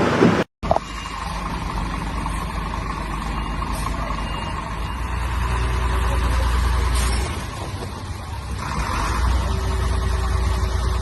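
Heavy vehicle engine running with a steady low rumble that swells louder twice, after a sudden break in the sound about half a second in.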